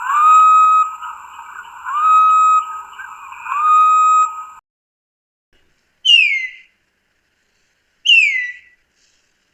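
Recorded wild bird calls of an unnamed species. First come three clear whistles, each rising quickly and then held on one note for under a second, with a light hiss behind them. After a short silence come two sharp, falling whistled notes about two seconds apart, which sound like a different bird.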